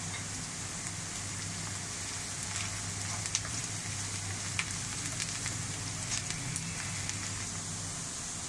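Sliced onions and cumin seeds sizzling in hot oil in a frying pan as they are stirred, with scattered small crackles and a low steady hum underneath.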